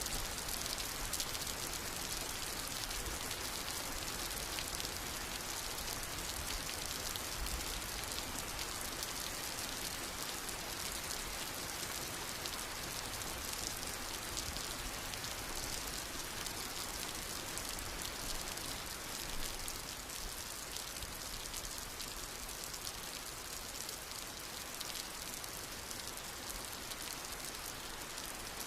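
Steady rain falling: a dense, even patter of raindrops hitting surfaces.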